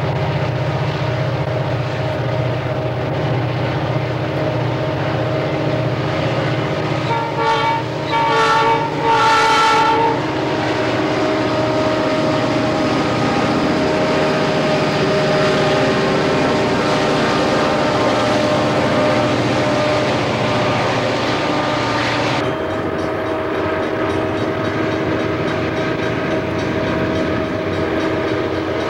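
Freight train rolling past, with a steady rumble of diesel locomotives and rail cars. About a quarter of the way in, a locomotive air horn sounds three short chord blasts as a salute between passing trains. Past the middle the sound changes abruptly to another diesel freight approaching.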